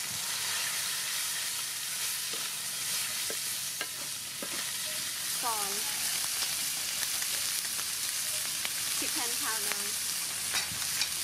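Shrimp frying in garlic and soybean oil in a hot aluminium wok: a steady sizzle, with scattered clicks and scrapes of the wooden spatula against the pan.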